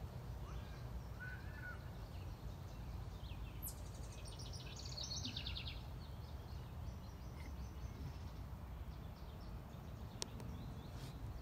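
Songbirds chirping over a steady low background rumble, with a quick run of rapid chirps about four to five seconds in and a single sharp click near the end.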